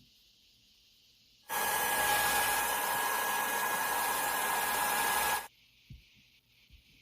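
Aerosol hairspray can spraying in one steady hiss of about four seconds, starting and stopping abruptly about a second and a half in, used to set a lace frontal wig's hairline. Faint small knocks follow.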